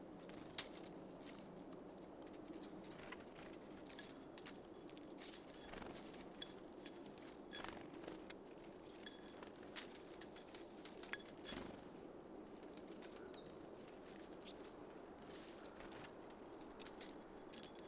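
Small birds at a feeder: scattered light taps and clicks of pecking and landing, with a few brief high chirps about eight seconds in, over a steady low background hum.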